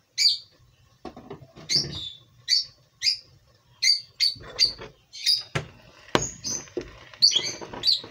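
A small bird chirping over and over in short, high calls, about one or two a second, with a couple of sharp knocks about two-thirds of the way through.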